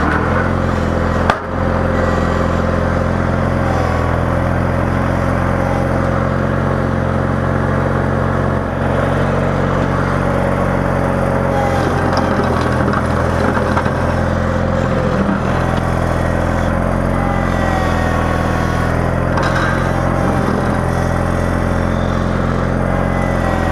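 Engine of a snow-plowing vehicle running steadily under load, with a single sharp knock about a second in.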